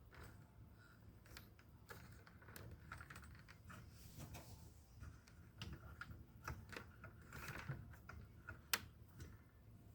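Faint, irregular small clicks and taps from a camera and its stand being handled while the camera height is adjusted, with one sharper click near the end.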